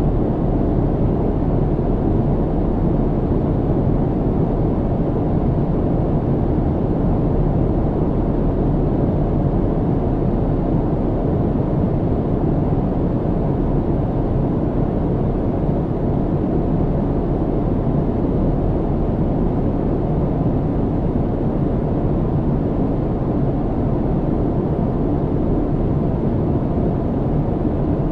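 Airplane cabin noise in flight: a steady, even, low rumble with no changes.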